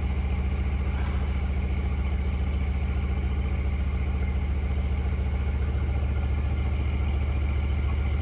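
Mercedes-AMG C63's 4.0-litre twin-turbo V8 idling steadily, with an even, low exhaust pulse.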